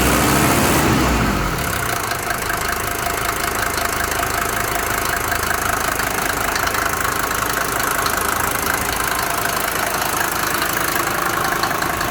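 Mercedes 190D's 2.5-litre OM602 five-cylinder diesel engine settling from a rev back to idle in the first second and a half, then idling steadily with a rapid knocking. The owner asks whether the knock comes from bad hydraulic lifters or an injector.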